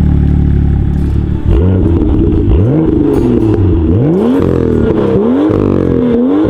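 2018 BMW M2's turbocharged straight-six revved at standstill through its quad-tip exhaust. A steady engine note for the first second and a half gives way to four quick throttle blips, each rising in pitch and dropping back.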